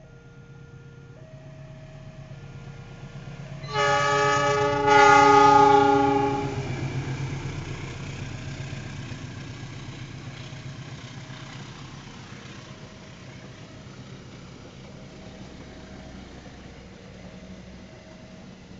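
A level-crossing warning alarm sounding a two-note alternating chime. About four seconds in, a diesel locomotive's horn gives two loud blasts, the second longer and louder. Then the locomotive and its passenger coaches run past, and the rumble slowly fades while the crossing alarm goes on faintly.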